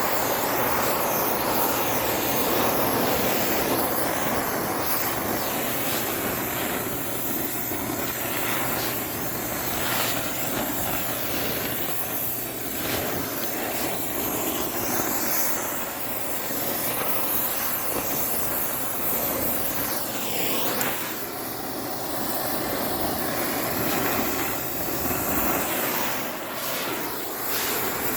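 Cutting torch flame running steadily against the face of a steel anvil: a continuous loud hiss, swelling and easing slightly as the torch is moved.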